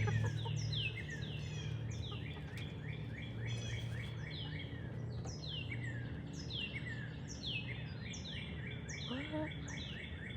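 Birds chirping: many short, high, falling chirps overlapping one another, over a low steady hum, with a brief rising call about nine seconds in.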